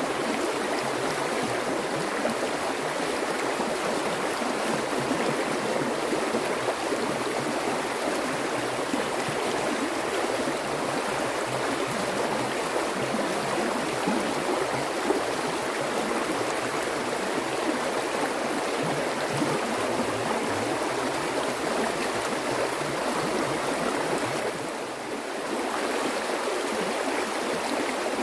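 Water flowing steadily in a stream, an even rushing babble. Near the end it briefly turns softer for about a second, then comes back.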